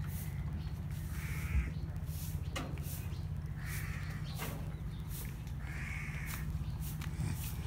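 Three harsh bird calls, each about half a second long and a couple of seconds apart, over a steady low rumble.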